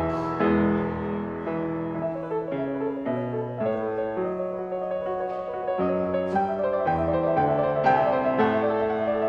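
Solo piano playing a slow prelude: chords and melody notes struck and left to ring.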